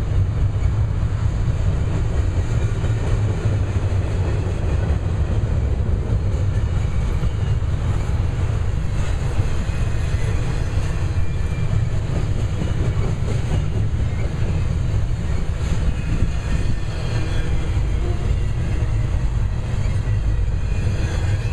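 Double-stack intermodal container train rolling past close by: a steady, loud rumble of steel wheels on the rails.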